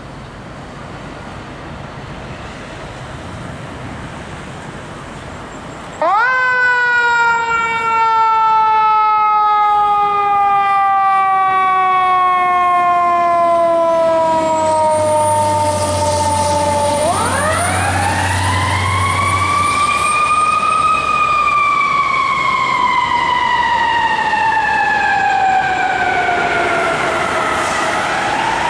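Chicago Fire Department Pierce ladder truck responding with its siren on. After a few seconds of engine and traffic noise, the siren starts suddenly with a sharp rise in pitch and then falls slowly, rising again twice as it is kept going.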